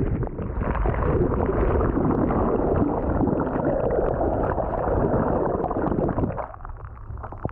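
Breaking surf churning and gurgling around a kayak as it is knocked over in the waves. The water noise drops away suddenly about six seconds in.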